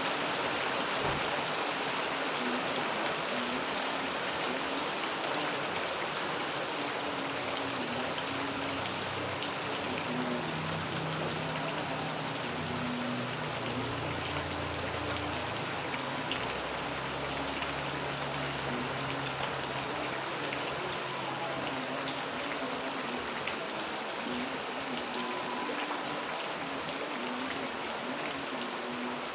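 Steady rain falling, an even hiss with scattered drops striking. A faint low hum comes in around the middle and fades again.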